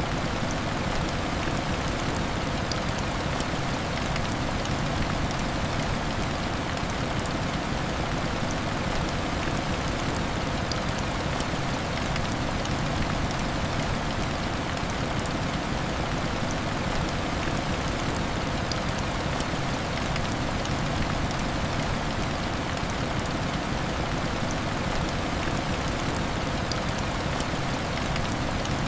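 Heavy rain falling steadily: a dense, even hiss of drops with faint scattered ticks.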